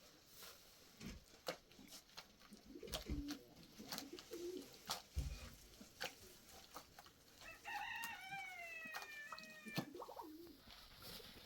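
Pigeons cooing softly, with one long rooster crow of about two seconds that falls in pitch near the end. Scattered sharp clicks and knocks are heard throughout.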